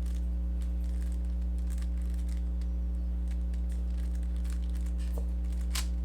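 Steady electrical hum with faint, irregular clicking of a Rubik's cube's plastic layers being turned, and one sharper click near the end.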